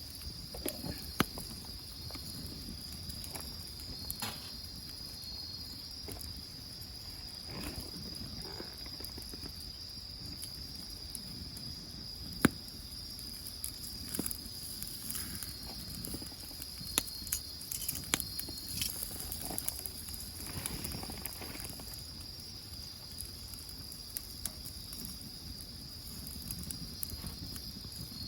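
Crickets chirping in a steady, continuous high trill, with scattered sharp pops and crackles from firewood burning in a wood grill.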